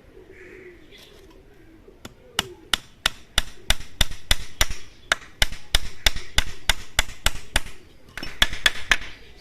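Hammer driving nails into a wooden frame. Sharp blows come about three a second from about two seconds in, then a quicker cluster of blows near the end.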